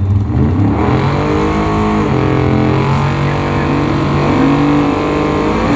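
Pickup trucks' engines accelerating hard down a drag strip, the pitch climbing and then dropping back with each gear change, several times over.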